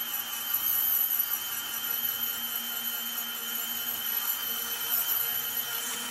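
Handheld Dremel rotary tool running at high speed and grinding rust off an old steel sickle blade: a steady high-pitched whine over a rasping grind that swells and eases slightly as the tool is worked.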